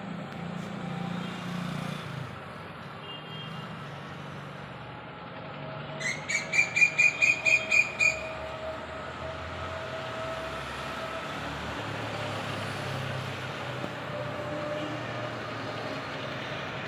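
A bulbul (jureli) gives a quick run of about ten short repeated notes, a chattering call, about six seconds in. A steady low rumble sits underneath throughout.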